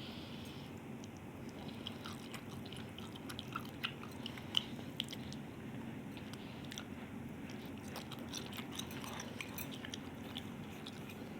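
A person eating Maggi instant noodles: soft chewing with small sharp mouth clicks, thickest and loudest around the middle, over a steady low background hum.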